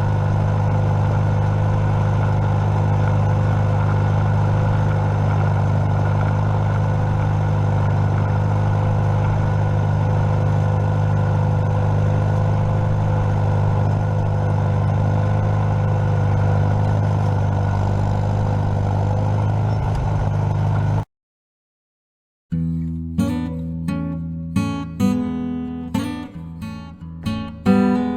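A tractor engine running steadily at constant speed for about twenty seconds. It cuts off abruptly, and after a short gap strummed acoustic guitar music begins.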